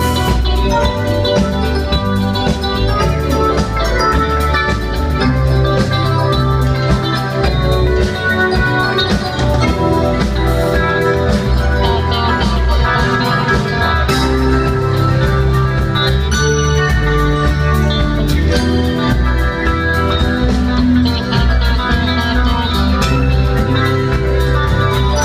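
A band playing an instrumental passage of a song with no singing, at a steady level, with held chords over a moving bass line.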